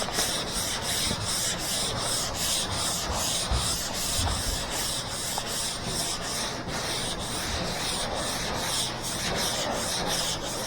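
Sandpaper on a hand sanding block rubbing back and forth over body filler on a car's roof: a steady scratching hiss in even strokes, about three a second.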